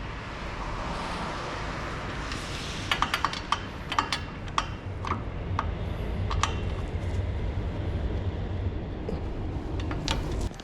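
Metal tools and brake parts clinking and tapping in irregular sharp strikes over a steady low hum, with a hiss in the first few seconds.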